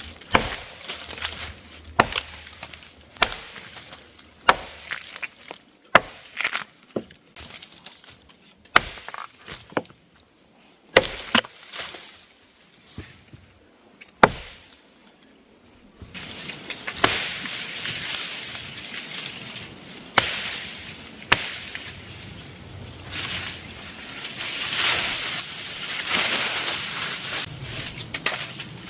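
Wolf Valley Forge axe chopping into a limb: sharp, separate strikes at an irregular pace, roughly one every second or two. About halfway through, a steady rustling hiss takes over, with a few more knocks in it.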